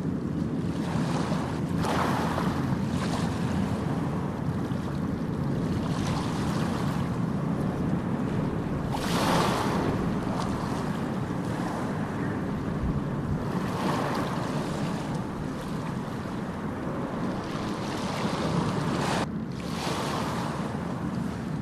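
Ocean surf: waves breaking and washing up the shore over a steady low rumble of the sea, swelling every few seconds, the loudest wave about nine seconds in.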